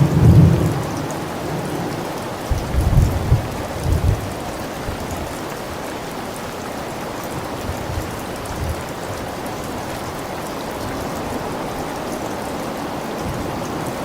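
Steady heavy rain with rumbles of thunder: a deep rumble at the start and another about three to four seconds in, then rain alone.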